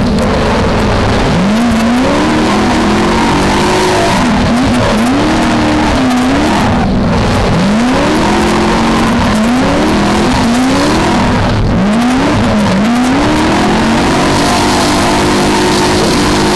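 V8 engine of a BMW E30 drift car under hard throttle, heard from inside the car, its revs climbing and dropping again and again, about every second or two, as the throttle is worked through a drift.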